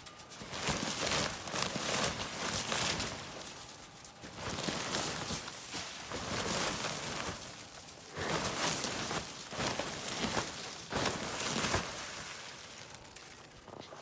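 Snow being cleared by hand: a few long scraping, swishing strokes, each a second or more, with pauses between.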